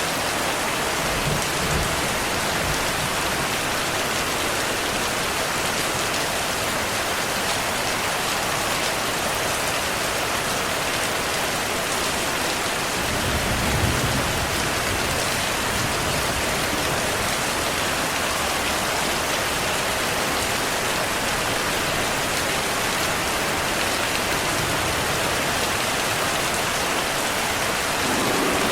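Heavy rain falling steadily, with a low rumble of distant thunder near the start and a stronger rumble about halfway through.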